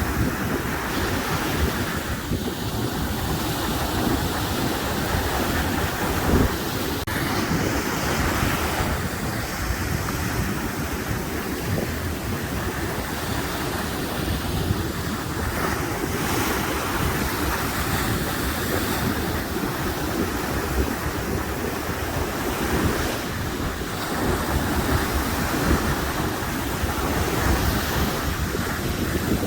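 Ocean waves breaking and washing in surf, with wind buffeting the microphone as a low rumble that rises and falls.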